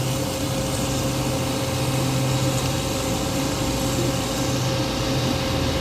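A steady machine drone runs throughout: an even hum with a constant low tone and a higher steady tone, like a motor or engine running at a fixed speed.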